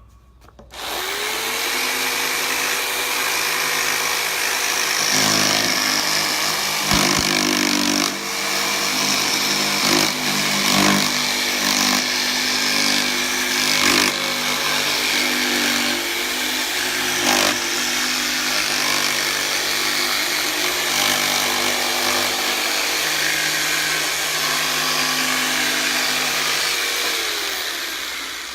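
Electric jigsaw cutting a wooden board. The motor spins up about a second in and runs steadily through the cut, with a few sharp knocks and rattles from the board, then winds down near the end.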